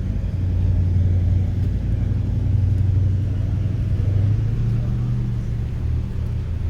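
Car engine idling close by, a low steady running note that rises a little in pitch about four to five seconds in.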